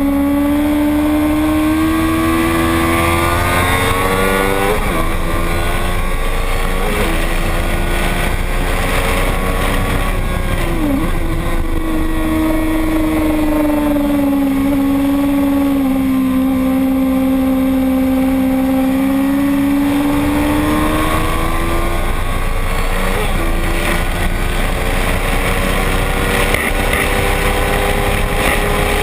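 Racing motorcycle engine running continuously at high revs, its pitch slowly rising and falling over several seconds, with a few brief sharp dips in pitch.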